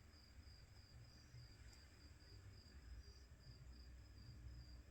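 Near silence with a faint cricket chirping steadily, about three high pulses a second, over a low hum.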